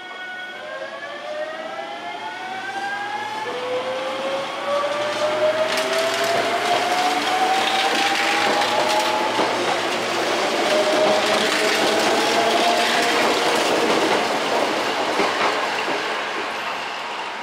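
Hankyu electric train pulling away from the platform, its traction motors giving a whine in several tones that climbs steadily in pitch as it accelerates. Wheel-on-rail noise and clacks over the rail joints grow as it comes past, then ease off near the end.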